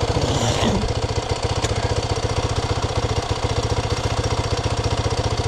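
Can-Am Maverick side-by-side's engine idling steadily with an even, rapid pulse.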